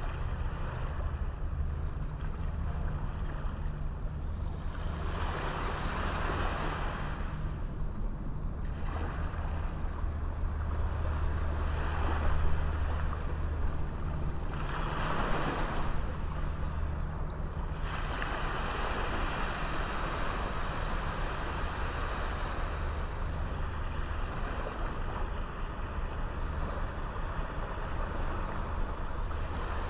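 Small sea waves breaking and washing up a beach, the surf swelling every few seconds and then receding. A steady low rumble of wind on the microphone runs underneath.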